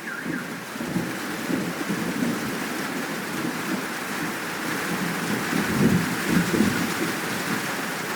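Steady rain falling with thunder rumbling low underneath, the rumble swelling and peaking about six seconds in. A bird chirps briefly at the very start.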